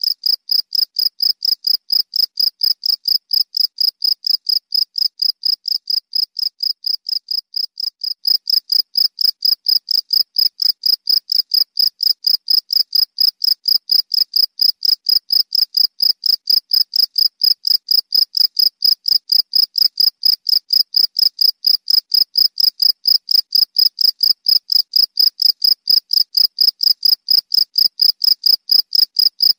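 Cricket chirping steadily: an even, rapid train of short chirps at one high pitch, about four or five a second, a little louder from about eight seconds in.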